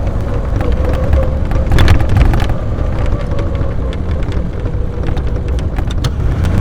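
AC Buckland's 2-litre straight-six running on the road, heard from on board: a steady low rumble with a held whine, and a few sharp knocks or rattles about two seconds in and again near the end.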